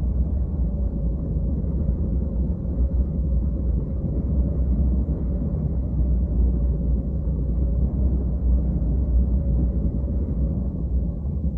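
Wind noise from the airflow over the microphone of a hang glider in flight: a steady low rumble, with a faint steady hum above it.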